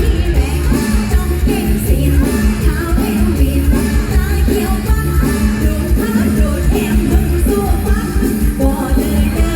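Live mor lam band music: a singer over a loud electric band with a heavy, steady bass beat.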